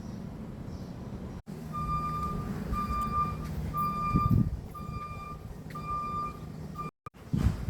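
A vehicle's reversing alarm beeping steadily, about once a second, over the low running of its engine. It starts abruptly about a second and a half in and stops just before the end, with a low thump midway.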